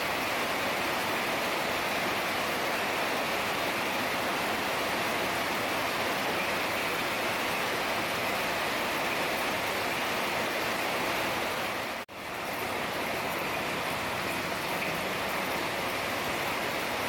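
Heavy rain falling steadily, a dense even hiss. It cuts out for an instant about twelve seconds in and fades back up.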